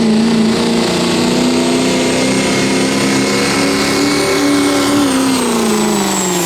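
Diesel pulling truck running at high revs under load: a loud, steady engine note with a thin high whistle above it. The pitch rises a little, then falls away over the last second and a half as the engine winds down.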